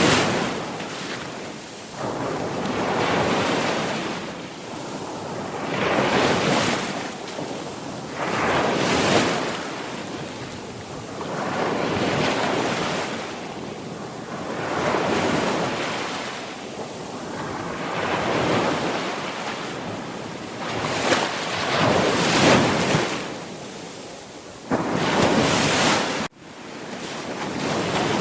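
Sea waves breaking on the shore, the surf swelling and fading about every three seconds. About two seconds before the end the sound cuts out for an instant, then comes straight back.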